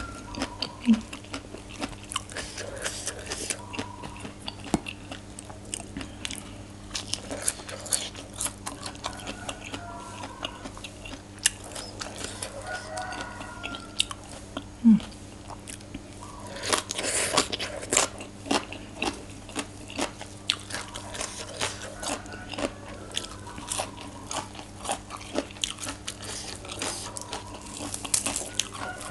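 Close-up chewing and crunching of som tam with raw shrimp and crisp fresh vegetables, a quick run of wet crunches and mouth clicks, with a louder, denser spell of crunching about halfway through.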